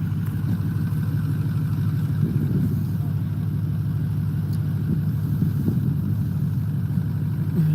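A motor vehicle's engine idling: a steady low hum that holds an even pitch and level.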